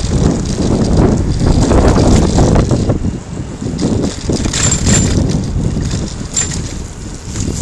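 Wind buffeting the microphone as a bicycle is ridden, a loud, uneven rush, with a couple of brief high squeaks from the bike about halfway through and again a little later.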